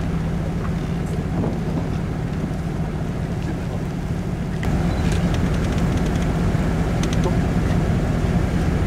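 Vehicle engine idling with a steady low hum, a little louder from about halfway through, with a few faint ticks.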